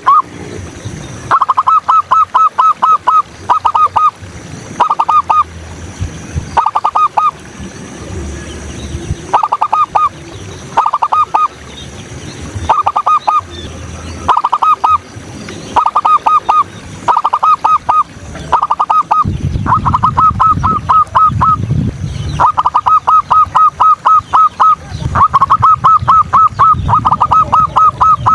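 Zebra dove (perkutut) cooing over and over, each phrase a quick run of short staccato notes, with brief pauses between phrases. Other small birds chirp faintly in the background.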